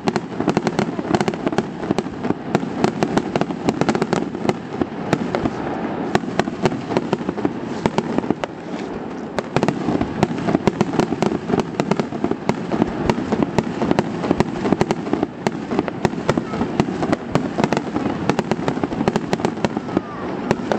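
Fireworks display in rapid-fire succession: dense bangs and crackles from bursting shells, many a second, easing briefly about eight seconds in before picking up again.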